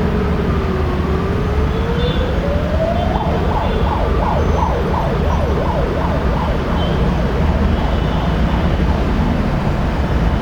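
Siren, a slow falling-then-rising wail that switches about three seconds in to a fast up-and-down yelp of about three sweeps a second, fading toward the end, over a steady low rumble.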